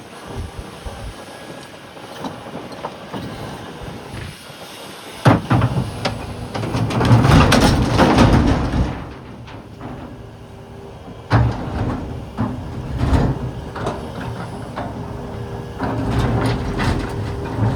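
Volvo EC380EL excavator loading rocks: a sharp bang about a third of the way in followed by a few seconds of loud clattering and scraping of rock, more heavy knocks later, and rising clatter near the end, over the machine's running engine.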